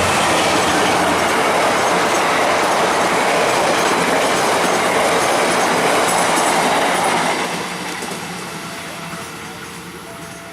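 Passenger train passing at speed on open track: loud rolling wheel and carriage noise that begins suddenly, holds for about seven seconds, then fades as the train moves away.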